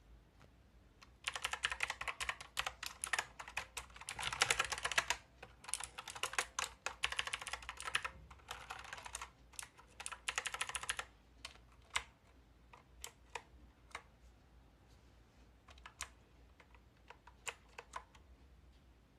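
Hansung Gtune MKF30 mechanical keyboard with clicky blue switches being typed on. About a second in, rapid keystroke clicks start and run for about ten seconds, then thin out to scattered single key presses.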